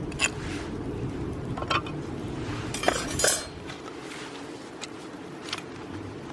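Metal clinks and knocks from a folding steel steamer basket used as a fire stand. There are several sharp ticks and a louder clatter about three seconds in, over a steady low rumble.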